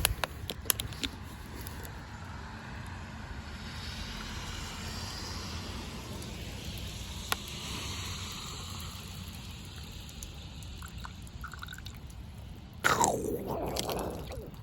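Water poured from a plastic bottle over a person's head, a steady splashing and dripping, with a few plastic clicks near the start. About 13 s in, the person makes a loud breathy vocal sound.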